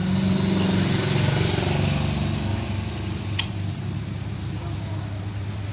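A 110 cc motorcycle engine running, louder for the first two seconds or so and then settling to a steadier, lower level. A single sharp click sounds about three and a half seconds in.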